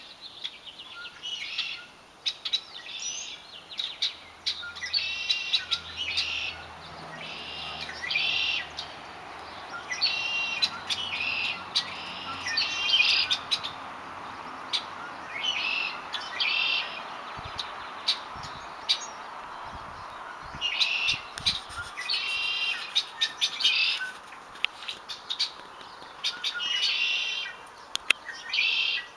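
Small birds chirping and singing in short, high phrases that repeat every second or two.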